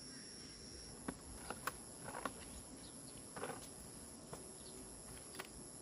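Insects calling with a steady high-pitched tone, with light clicks and rustles scattered through it.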